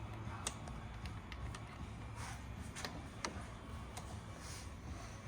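Scattered light clicks and taps of metal hand tools and bolts being handled, a few sharp ones about a second apart at irregular intervals, over a low steady hum.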